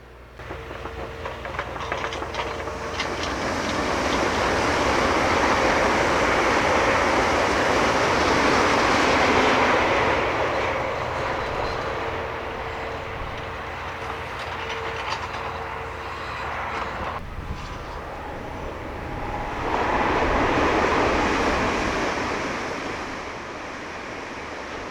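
Train passing on the main line at speed, wheels clicking over the rails, its rush building up to a loud peak and easing off, with a second swell of train noise later on.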